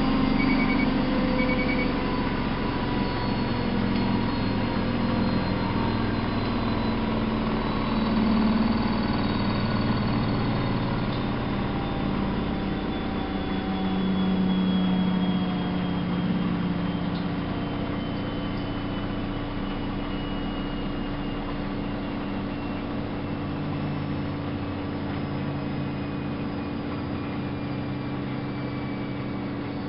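Miele Novo Super W933 washing machine running, its motor whine slowly falling in pitch as the drum winds down from a spin. A few short high beeps at the start.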